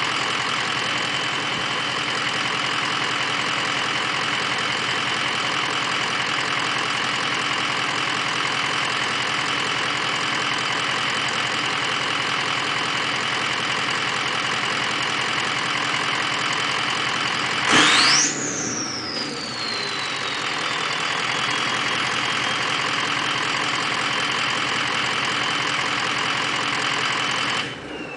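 A 2003 Ford 6.0 Powerstroke V8 turbo-diesel idles with a steady high turbo whistle over the engine. About eighteen seconds in, a quick rev sends the turbo whistle sharply up in pitch, and it then slowly falls back over several seconds. Near the end the engine is shut off, the running sound drops away, and the turbo whistle keeps winding down.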